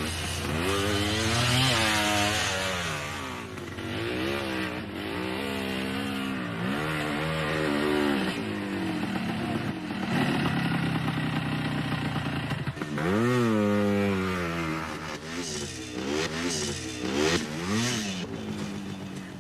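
Yamaha DT1's single-cylinder two-stroke engine being ridden hard off road, its pitch swinging up and down again and again as the throttle is opened and shut, with a sharp climb about two-thirds of the way through. It fades out at the very end.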